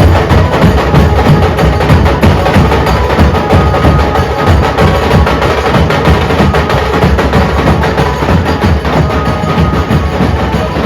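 A dhol drum group playing a fast, dense beat: heavy low drum strokes with sharp, cracking hits on top, continuous and loud.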